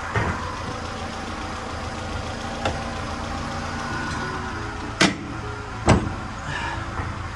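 Mercedes-Benz A-Class (W168) petrol engine idling steadily, freshly reassembled after a complete strip-down. Two sharp knocks about five and six seconds in as the bonnet is brought down and pressed shut.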